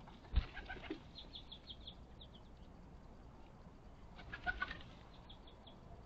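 Small birds at a backyard feeder: a sharp thump with a flutter of wings about half a second in, then a quick run of short high chirps. Another flutter comes a little past the middle, with more short chirps near the end.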